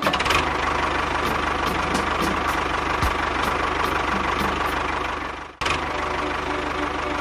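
An engine running steadily with a regular ticking knock. It cuts out for an instant about five and a half seconds in, then carries on.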